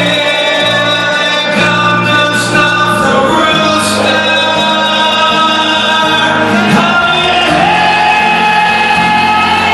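Live rock song on acoustic guitar with a man singing long, held notes.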